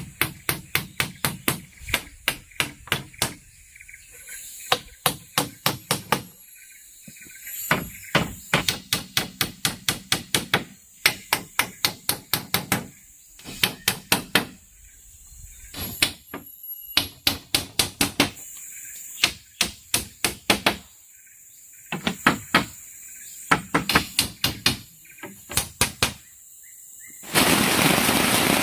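A tool striking bamboo in quick runs of sharp blows, about three to four a second, with short pauses between runs. Near the end the blows give way to a loud steady hiss.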